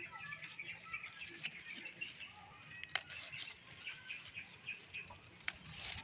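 Birds chirping steadily in the background, with two sharp clicks: one about three seconds in and another near the end.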